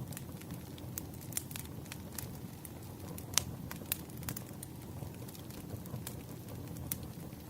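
Burning firewood crackling: irregular sharp pops over a steady low rumble, with one louder pop about three and a half seconds in.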